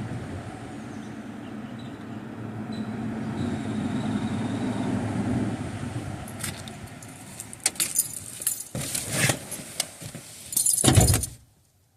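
A vehicle passing by, its steady noise swelling and then fading. Then a run of clicks and rattles with keys jangling, and near the end a heavy car-door slam, after which the sound drops away suddenly.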